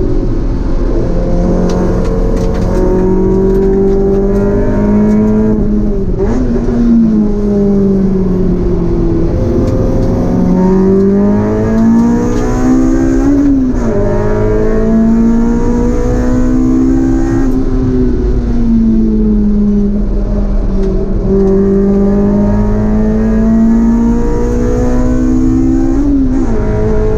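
Honda S2000's four-cylinder engine heard from inside the cabin on a track lap, revving up under acceleration and falling away off the throttle. Twice, about halfway through and near the end, the pitch climbs steeply and then drops sharply, as on an upshift.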